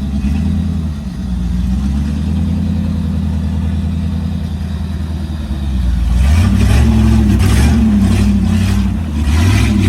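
Off-road 4x4's engine running steadily, then revved hard from about six seconds in, pitch rising and falling as it pushes at a trail obstacle. A rough rushing noise comes in over the revving, typical of tyres churning through mud.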